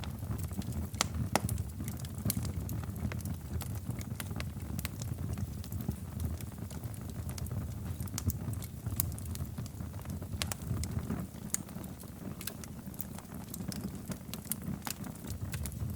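Wood fire crackling in a fireplace: many irregular sharp pops and snaps over a steady low rumble of the burning.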